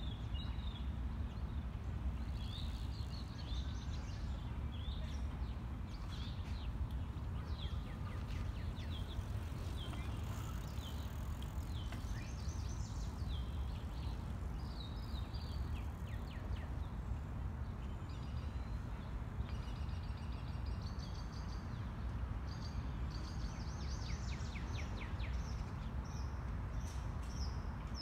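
Several songbirds chirping and trilling in trees, short high calls repeating all the way through, over a steady low background rumble.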